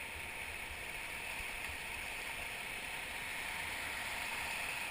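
Steady rush of whitewater river current around a raft, picked up by a raft-mounted GoPro, with an unsteady low rumble underneath.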